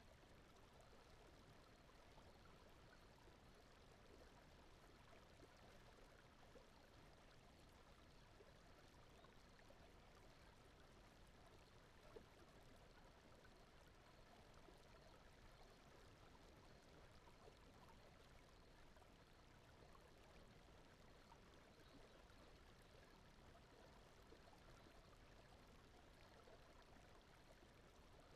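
Faint, steady sound of a stream of running water, with a single soft click about twelve seconds in.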